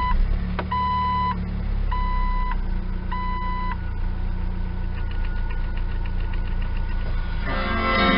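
1999 Jeep Wrangler TJ's 2.5-litre inline-four engine idling steadily just after start-up, running on fresh spark plugs and a Seafoam treatment. A dashboard warning chime beeps about once a second over it and stops about four seconds in. Music comes in near the end.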